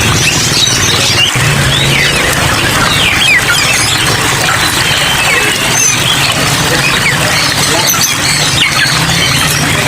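Many caged songbirds chirping and twittering over a steady hiss of rain, with a low hum that comes and goes.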